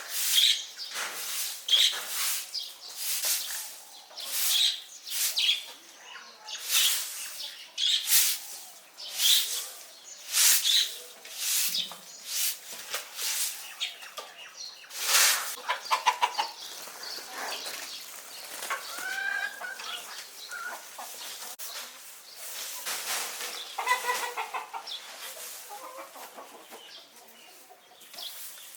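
Chickens clucking and calling, over repeated loud rustling swishes about once a second that ease off about halfway through.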